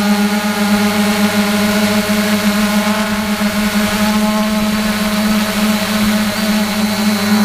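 3DR Iris+ quadcopter's electric motors and propellers humming at a steady pitch.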